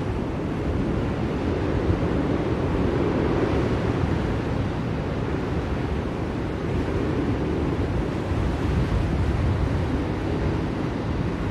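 Blizzard wind: a steady deep rushing with gentle swells, with no distinct gusts or knocks.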